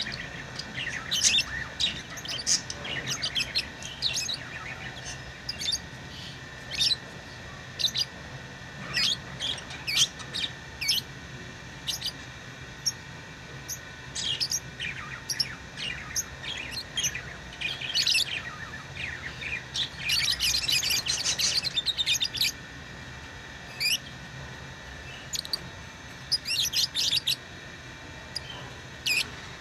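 Small pet parrots chirping: short, sharp, high chirps come irregularly throughout, with two denser bursts of rapid chattering at about twenty and twenty-six seconds in.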